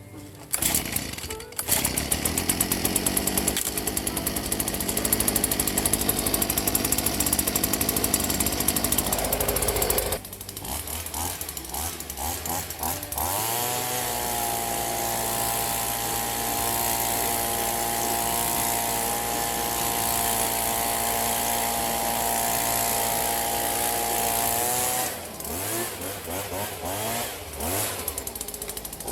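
Small petrol-engined yard power tool running: fast, even chatter at first, then revved up with a rising whine about a third of the way in, held at steady high speed, let off about 25 seconds in, and revved again at the very end.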